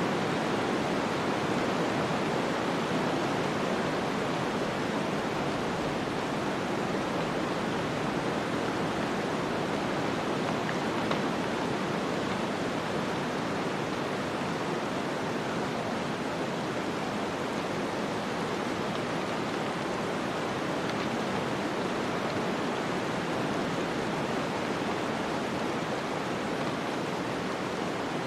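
Snowstorm ambience: a steady, even rushing of wind-driven snow with no separate sounds standing out.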